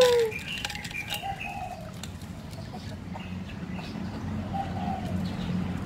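Birds calling, a few short soft calls over a low steady background, with some light clicks.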